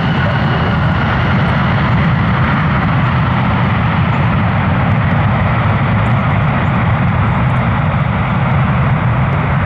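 Boeing 737-700 airliner's CFM56 jet engines giving a loud, steady rush of jet noise.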